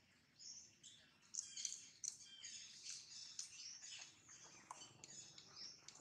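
Small birds chirping faintly: many short, high chirps and quick falling notes overlapping, a few of them sharper and louder.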